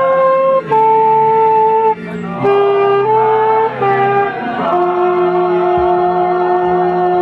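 Instrumental music: a wind instrument plays a slow melody of held notes over a low accompaniment, settling about two-thirds of the way in on a long held note with vibrato.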